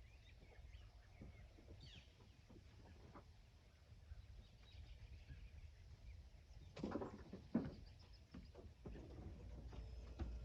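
Near silence with faint outdoor ambience: a few scattered bird chirps and a couple of sharp knocks about seven seconds in.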